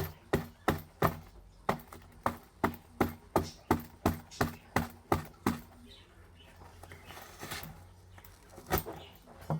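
A rapid, even series of sharp knocks, about three a second, that stops about five and a half seconds in; two more knocks come near the end.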